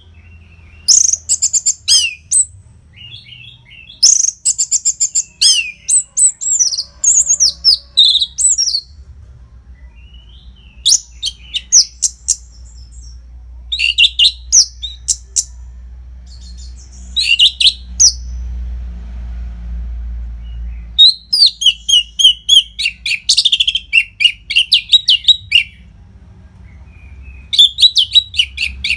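Orange-headed thrush (anis merah) singing in bouts of rapid, high chattering phrases and whistled notes, with short pauses between bouts.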